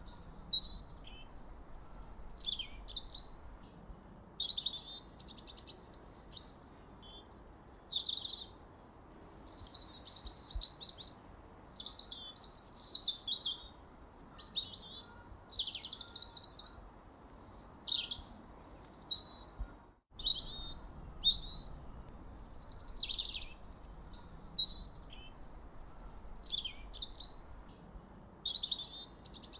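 Birds singing: a continuous run of high whistled phrases, chirps and quick trills, one after another, over a faint background hiss, with a split-second break in the sound about two-thirds of the way through.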